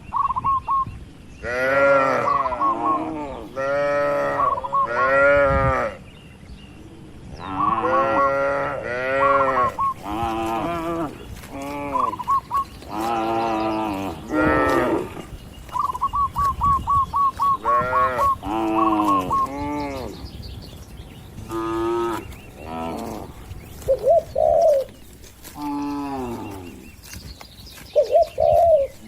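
Cattle mooing again and again: a long series of separate calls, each about a second or less, some overlapping, with short gaps between them.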